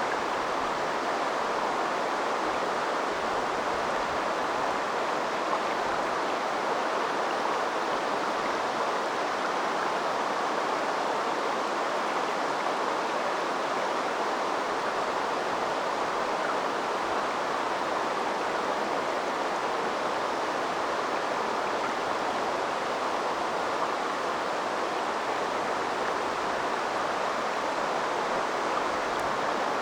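Shallow river water flowing, a steady, even rush of water with no changes or distinct events.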